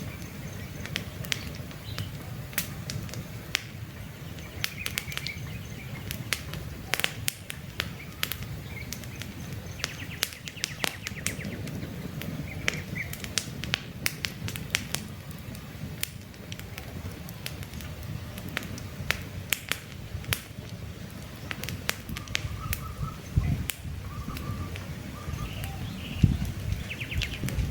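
Campfire burning, with frequent irregular crackles and pops of wood over a low rumble of flame. Birds chirp now and then in the background.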